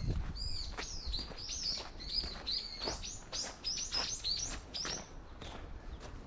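A small songbird singing a rapid run of high chirping, slurred notes, about three a second, that stops about five seconds in. Footsteps on the path sound faintly underneath.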